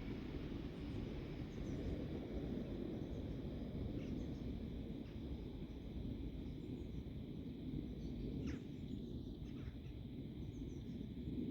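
Steady low outdoor rumble of wind and distant background noise, with faint bird chirps now and then, most noticeable about eight to ten seconds in.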